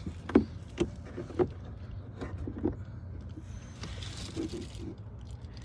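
Light plastic clicks and knocks, about half a dozen, as a pickup truck's cabin air filter cover and glove box parts are handled and worked back into place, with a short rustle about four seconds in. A steady low hum runs underneath.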